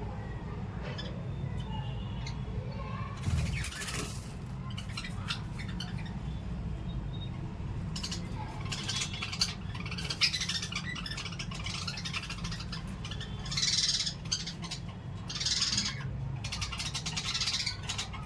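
Small caged parrots chirping and chattering in bursts, loudest in the second half, over a steady low hum.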